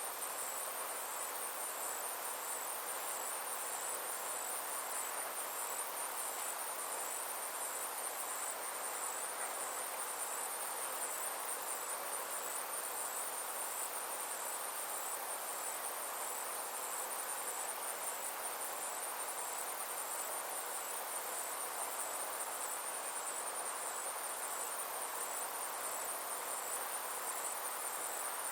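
Summer insects trilling steadily in a high, evenly pulsing chorus, over a soft, even outdoor hiss.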